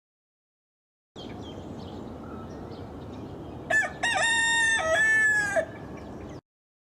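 Rooster crowing once, a cock-a-doodle-doo of short opening notes and a long held final note that falls away at the end, over a steady background hiss.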